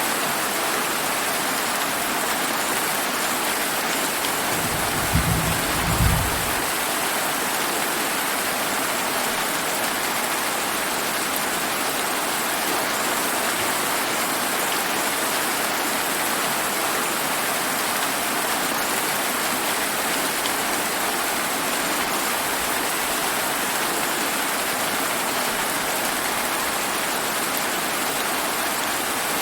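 Steady rain falling, a constant even hiss, with a short low rumble of distant thunder about five seconds in.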